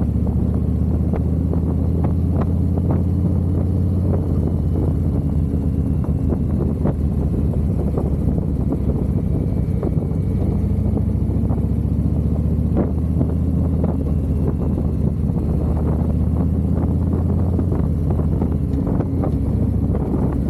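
Harley-Davidson V-twin motorcycle engine running under way, its low pitch steady with a few slight rises and falls, with wind noise on the microphone.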